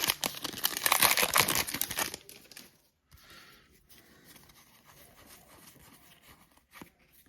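Foil wrapper of a trading-card pack crinkling and tearing as it is ripped open, loud for about two seconds; then faint rustling as the cards are handled.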